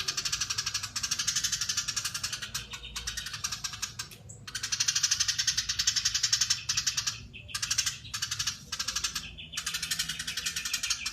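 Eurasian tree sparrow chattering in long, fast, closely packed runs, broken by brief pauses about four, seven and nine seconds in.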